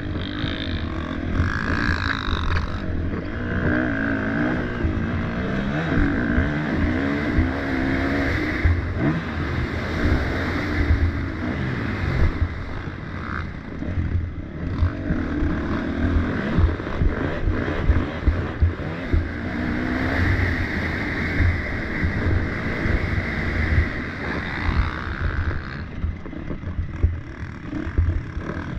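Motocross dirt bike engines revving up and easing off again and again as the bikes race round the track, over a heavy, uneven low rumble.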